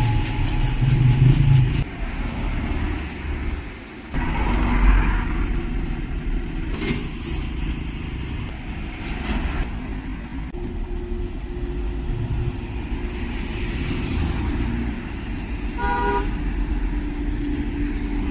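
Street traffic: cars passing with a steady engine rumble, and a short car-horn toot about sixteen seconds in.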